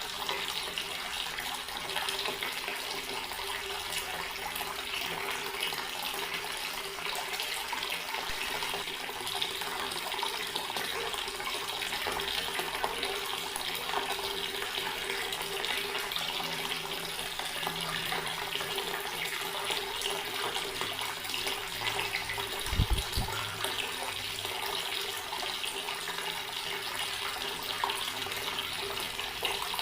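Water tap running in a steady stream, an even splashing hiss with a faint steady low hum under it. A single brief low thump sounds about two-thirds of the way through.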